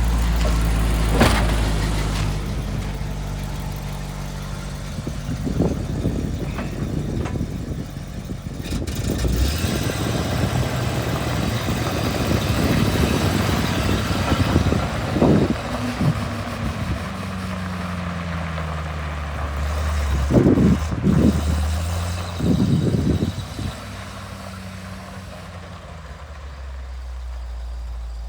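1977 Ford LN600 grain truck's engine running, mostly at a steady idle, with several louder surges along the way and a tone that slides down in pitch about halfway through.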